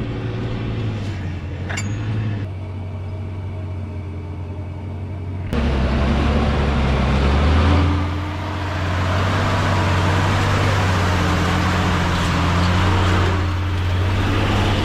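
Heavy truck engine running steadily with a low hum. About five seconds in the sound jumps suddenly to a louder engine with a rushing noise over it.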